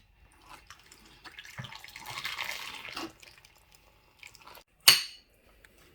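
Water pouring for about two seconds, then one sharp knock of kitchenware near the end.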